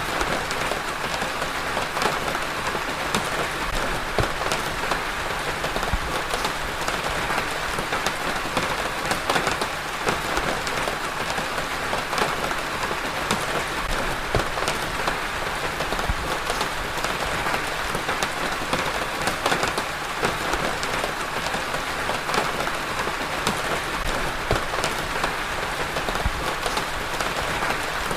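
Steady rain falling, a continuous hiss with many fine drop patters on a surface.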